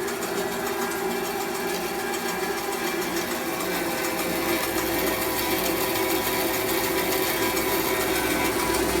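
Belt-driven Delta Homecraft bandsaw running steadily at speed, its motor, pulleys and blade making a smooth, even hum with freshly oiled bronze bearings; it gets slightly louder about halfway through.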